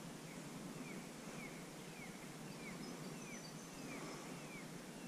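A bird calling a short, falling whistle over and over, roughly every half second, faint over a steady outdoor background hiss.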